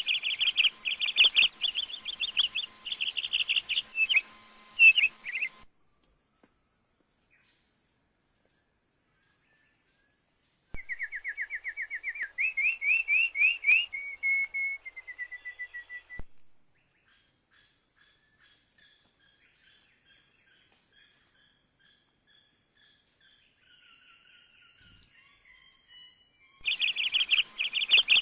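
Birds singing in bursts of fast, repeated high chirps. A run of quick notes rises in pitch about halfway through, followed by fainter calls. A steady high insect drone runs underneath.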